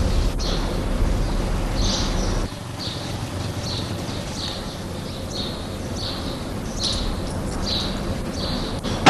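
A bird chirping over and over in short high calls, about two a second. A low rumble underneath cuts off about two and a half seconds in, and a brief louder sound comes at the very end.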